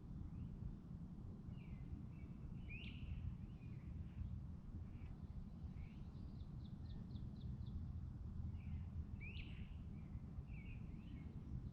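Small birds chirping and calling intermittently, with two sharp rising calls and a short quick run of about six notes midway, over a steady low rumble of outdoor background noise.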